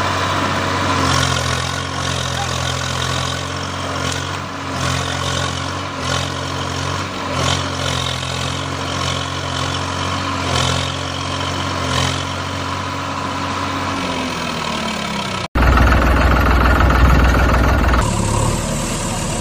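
Heavy vehicle engine running steadily, then slowing with a falling pitch near the end. After an abrupt break, a louder, deeper engine rumble follows.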